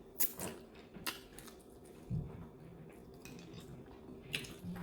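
Soft eating noises: a few scattered sharp clicks and taps, like a spoon on a plate, with light chewing in between.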